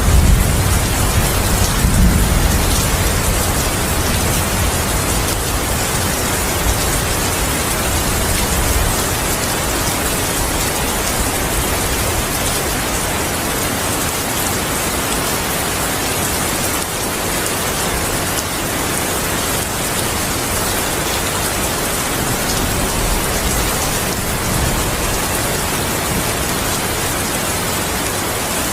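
Steady heavy rain falling, an even hiss. A low rumble of thunder dies away over the first few seconds.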